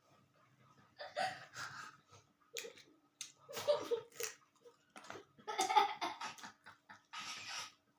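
Close-up mouth sounds of a person eating dal, rice, omelette and roti: irregular wet chewing and lip smacking in short bursts with pauses between.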